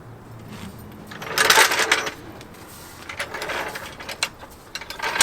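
Metal hand tools clattering and clicking, with sockets and a ratchet being handled for a transmission mount bolt. A loud rattle comes about a second and a half in, then lighter clicking and a few sharp clicks near the end.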